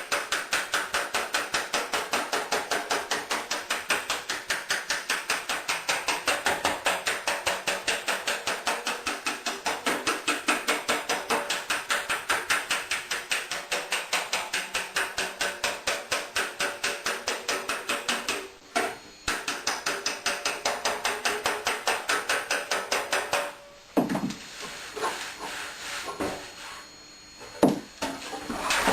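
Body hammer tapping out a dent in a thin car fender held against a dolly: a fast, even run of metallic taps, about four a second, with a short break and then stopping about three-quarters of the way through, followed by a few scattered knocks.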